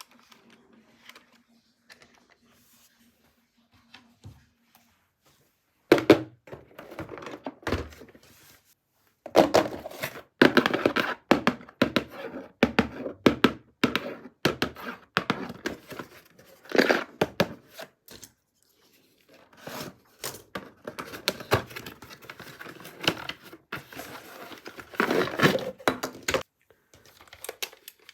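Toy packaging being unboxed by hand: plastic and cardboard crinkling and tearing, with knocks and thunks as parts are handled. It comes in bouts starting about six seconds in, after a near-quiet stretch.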